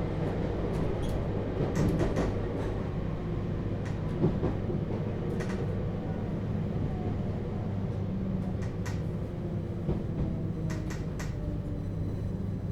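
Onboard running sound of a JR Hokkaido 721-series electric train's motor car with a Toshiba GTO-thyristor inverter: a steady hum of the motors and wheels on the rails, with faint inverter tones and scattered short clicks from the track, as the train approaches a station stop.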